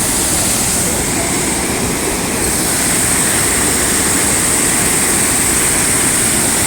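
Rain-swollen stream rushing, a loud steady noise of running water.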